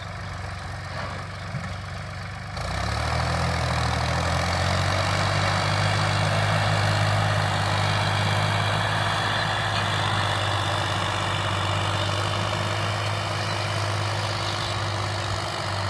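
Farm tractor engine working a field. It gets louder and deeper about two and a half seconds in, then holds a steady drone.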